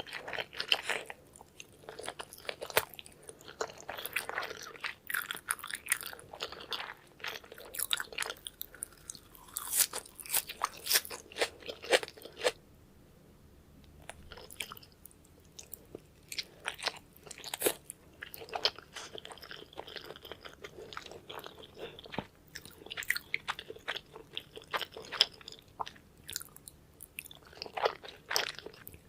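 Close-miked eating of sushi: wet chewing, biting and smacking mouth sounds in irregular clusters, quieter for a few seconds around the middle.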